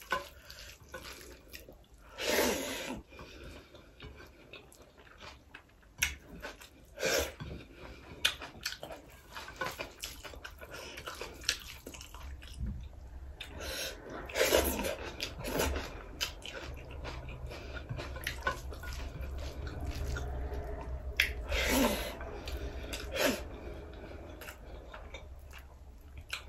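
Close-miked eating: wet chewing and lip smacks with many small clicks, and a few louder mouth noises spread through.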